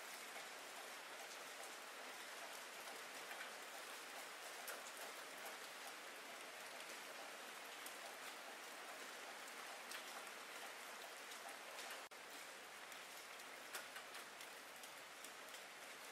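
Steady rain hiss with scattered sharper drop hits. The sound cuts out for a moment about twelve seconds in.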